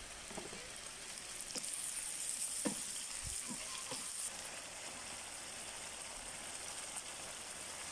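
Chicken and freshly added tomatoes sizzling steadily in a nonstick wok on a portable gas camping stove, with a few light scrapes of a wooden spatula stirring them in during the first half.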